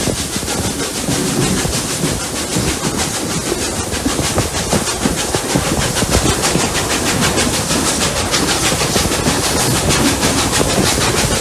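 Steam locomotives Rx207 and 621 working a train uphill: a fast, even beat of exhaust chuffs over steady steam hiss and running noise from the train. The beat comes through more clearly from about four seconds in.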